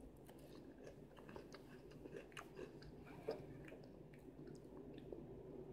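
Faint crunching of Chester's Flamin' Hot Fries, a crispy corn and potato snack, being chewed: scattered soft crackles, with one slightly louder crunch about three seconds in.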